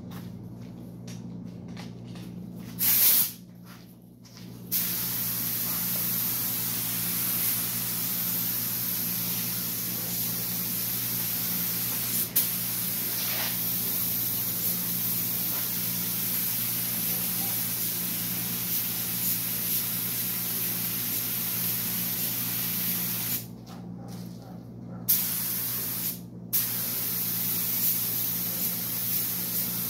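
Compressed-air paint spray gun spraying primer: a steady hiss of air and paint held for most of twenty seconds, with short trigger blasts before it and a couple more near the end.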